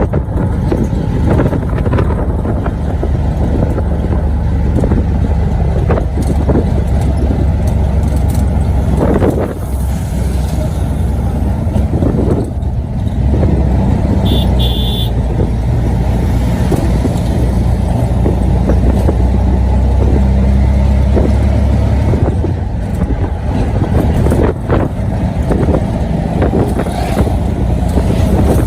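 A motor vehicle engine running steadily with a low, even hum, and a short high beep about halfway.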